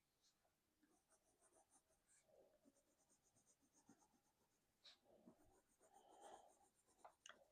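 Faint scratching of a coloured pencil on sketchbook paper, in runs of quick back-and-forth shading strokes.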